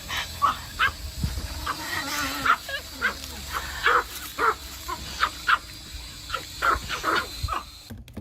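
A dog barking in short, repeated barks, about one or two a second.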